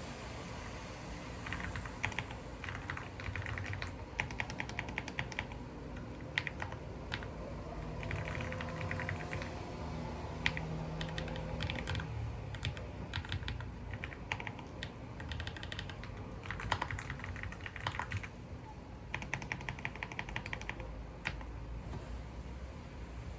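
Typing on a computer keyboard in quick bursts of keystrokes, broken by short pauses.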